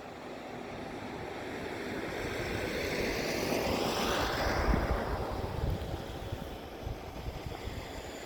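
Wind buffeting the microphone while a vehicle passes by, its noise swelling to a peak about halfway through and then fading away.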